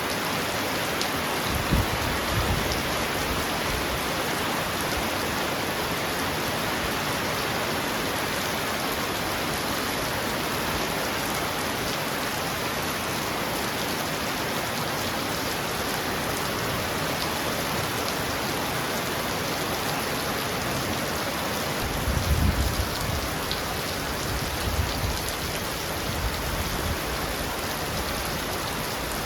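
Heavy rain pounding steadily on a roof, a dense, even hiss. Brief low thumps come about two seconds in, and a low rumble swells about three quarters of the way through.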